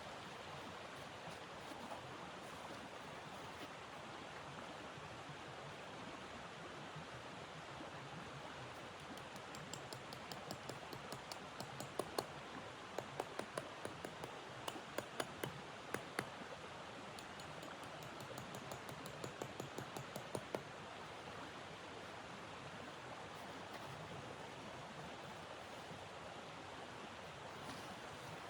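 Steady rushing wind noise, with a run of sharp crackles and pops from a wood fire in the middle stretch.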